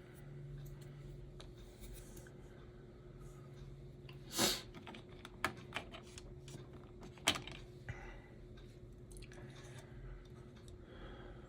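Small clicks and taps of tiny parts and tools being handled on a workbench, with a louder brief rustle about four and a half seconds in and a few sharp clicks after it, over a faint steady hum.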